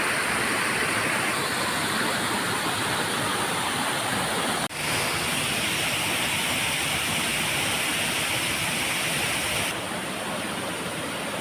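Waterfall rushing: a steady, loud, even sound of falling water. It breaks off briefly about halfway through and is slightly quieter and duller near the end.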